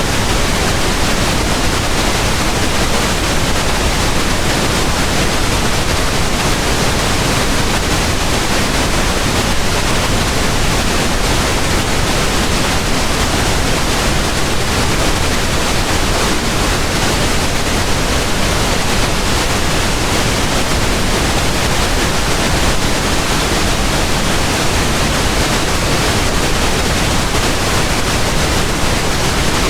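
Steady pink noise: an even, unchanging hiss spread across the whole range from low rumble to high hiss, with no events or changes.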